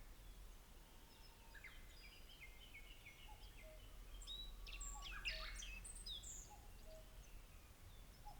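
Faint wild birdsong: several songbirds chirping and trilling in short phrases, busiest and loudest in the middle, over a steady low rumble of outdoor background noise.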